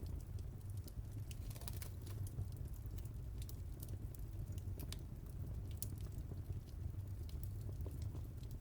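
Wood fire burning in a fireplace: a steady low rumble of the flames with irregular sharp crackles and pops, a small cluster of them about two seconds in.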